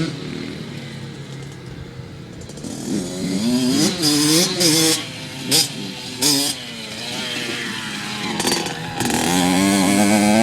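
Dirt bike engines revving up and down, with several short sharp bursts of throttle, then one bike running loud and steady near the end.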